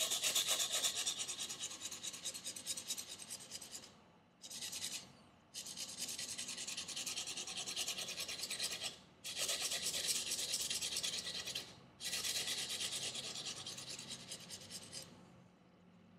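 Buck Ptarmigan knife blade stroked quickly back and forth over sandpaper laid on a leather strop, a dry rasping scratch, as its convex edge is reprofiled. It comes in five runs with short pauses between and stops near the end.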